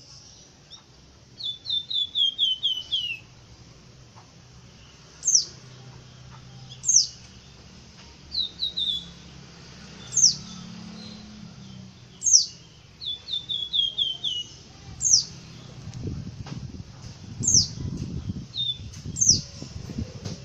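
Wergan songbird singing: sharp, high whistles that sweep quickly downward, repeated every two seconds or so, mixed with three quick runs of six or seven falling notes. Some low rumbling comes in over the last few seconds.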